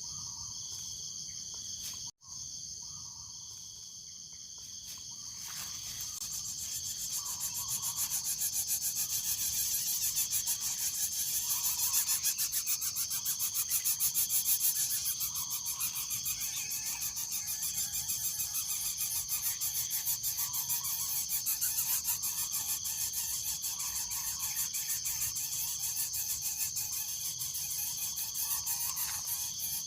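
Insect chorus of crickets: a steady high trill with rapid even pulsing, cut briefly about two seconds in and growing louder a few seconds later.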